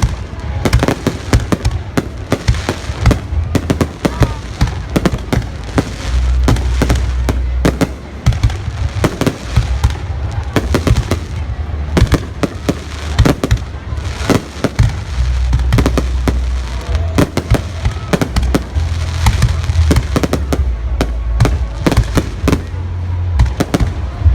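Fireworks going off without a break: many sharp bangs and crackles, close together and overlapping, over a constant low rumble.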